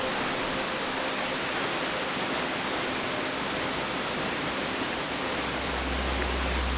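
Steady rushing water, an even hiss like a waterfall. A low hum comes in near the end.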